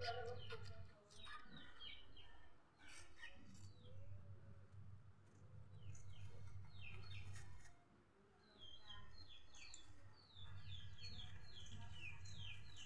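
Small birds chirping in quick runs of short falling chirps, twice, over a steady low hum.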